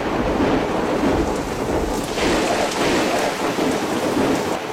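Heavy typhoon rain and storm wind: a dense, continuous wash of noise that changes character slightly about two seconds in.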